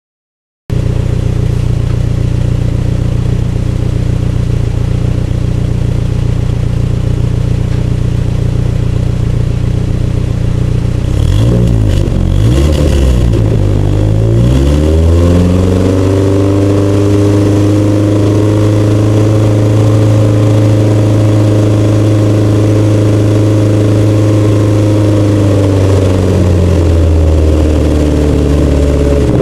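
Fiat 124 Spider's 2-litre twin-cam four-cylinder engine running through a tube header, turbo tube and catalytic converter, idling steadily at first. About halfway through it is blipped and raised to a higher speed, held steady for about ten seconds, then let back down toward idle near the end.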